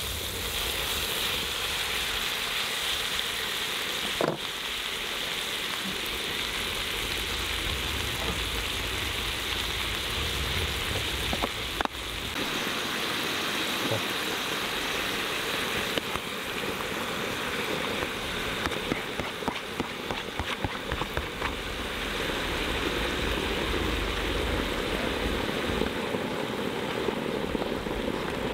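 Food sizzling in a pan, a steady frying hiss, with a couple of sharp clicks about four seconds in and near twelve seconds.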